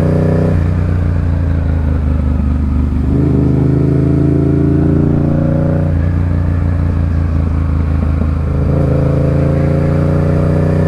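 Motorcycle engine running under way, its note climbing slowly and then dropping back a few times as it changes gear.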